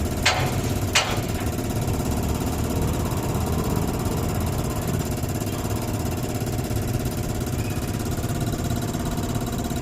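Isuzu 6HK1 six-cylinder diesel engine idling steadily, with two sharp clicks about a second in.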